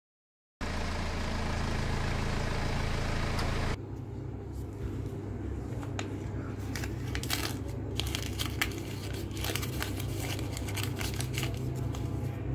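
Hands working small objects on sand: scratchy scraping, light clicks and clinks from a thin metal tart tin, and paper crinkling, over a steady low hum. Before that, after a brief silence at the very start, there are about three seconds of only steady hum and hiss.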